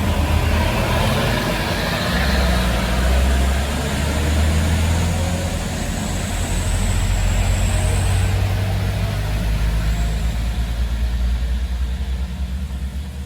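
A bus's heavy engine running with a deep steady drone that swells and eases over several seconds, over an even hiss of tyres and rain on a wet road.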